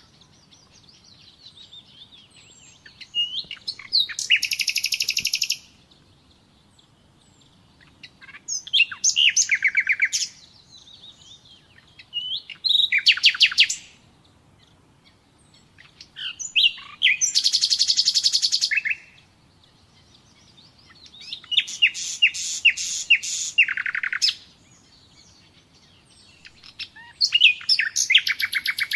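Nightingale singing: about six separate song phrases a few seconds apart, each a fast run of repeated high notes, some opening with a few short whistles.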